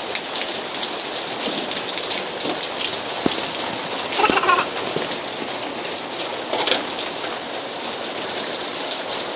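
Steady rain falling on a wet concrete patio, an even hiss with scattered sharper drop taps.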